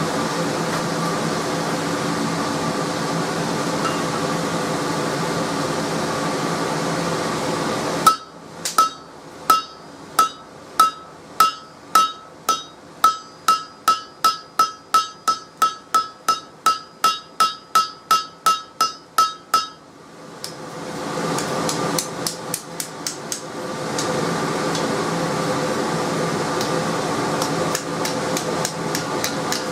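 Hand hammer striking hot spring steel on an anvil, about two blows a second speeding up to about three, each with a bright ring, for some twelve seconds. A steady hum runs before and after the hammering.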